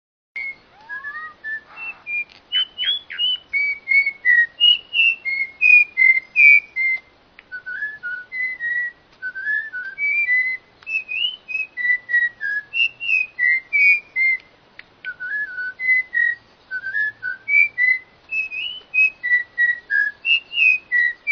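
A songbird singing a long, unbroken run of short, clear whistled notes, several a second, each a quick slur, hopping up and down in pitch. It opens with one upward-sweeping whistle about a second in.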